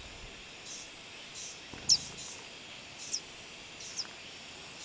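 Small bird giving three short, high chirps about a second apart, the first the loudest, over a faint steady buzz of insects in the grass.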